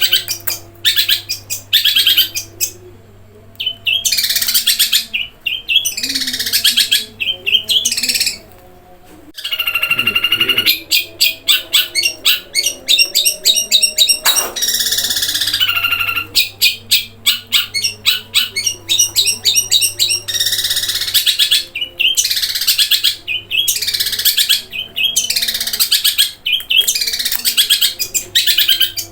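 Long-tailed shrike singing loudly and almost without pause, in quick bursts of rapid rolling trills and harsh chattering phrases, with mimicked sparrow-style chirps.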